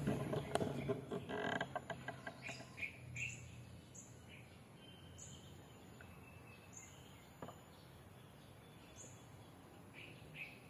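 A burst of rustling and crackling in the first two seconds, then a small bird chirping over and over with short, high calls about once a second. A single sharp click comes about seven seconds in.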